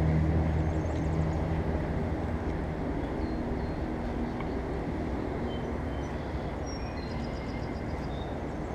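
A low motor drone with a few overtones, fading away over the first couple of seconds like a vehicle passing into the distance, over a steady rushing background; a few faint high chirps come later.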